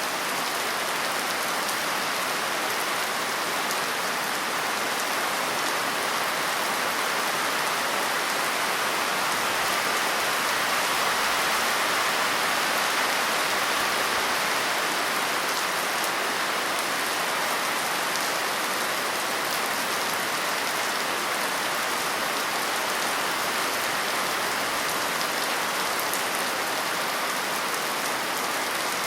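Steady, dense rain falling on a surface, an even hiss of many drops with no let-up.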